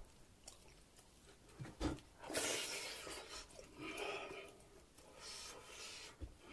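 Close-miked eating sounds: a person chewing pork neck-bone meat from bone hangover soup, the wet mouth noises coming in a few short spells, with a single soft knock about two seconds in.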